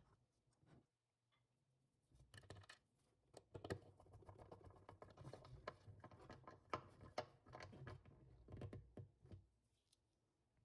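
Faint scattered light clicks, taps and scratching, starting about two seconds in and stopping near the end.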